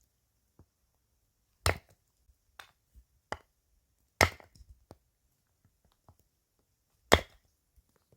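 Chopping: three hard chops, roughly two and a half to three seconds apart, with a few lighter knocks in between.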